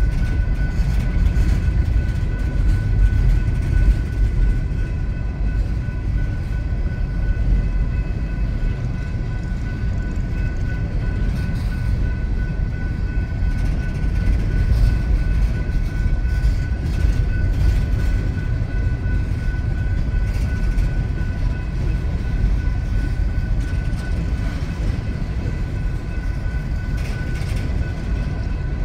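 Empty coal cars of a slow freight train rolling past, a steady low rumble with faint wheel clicks. A steady high-pitched tone runs over it.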